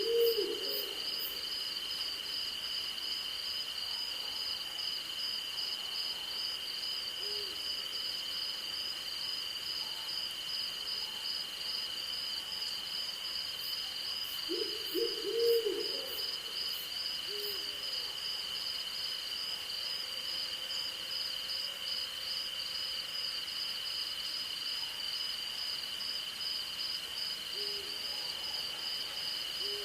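Owl hooting: a quick run of short hoots at the start and again about halfway, with single hoots in between, over a steady night chorus of crickets and insects, one continuous high trill and a higher pulsing one.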